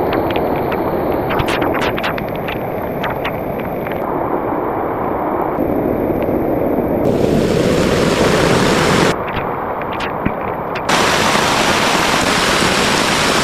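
Heavy rain falling steadily, with sharp drips ticking through the first few seconds. The hiss of the downpour changes abruptly a few times, growing brighter and harsher, then easing, then harsher again.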